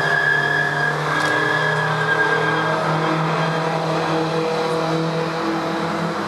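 Historic DTM touring race car engines running loud and fairly steady on track, with a high whine that fades out about halfway through.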